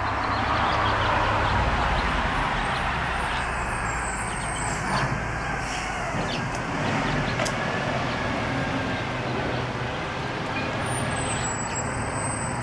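Street sweeper truck running close by: a steady heavy-engine drone under a broad, even hiss.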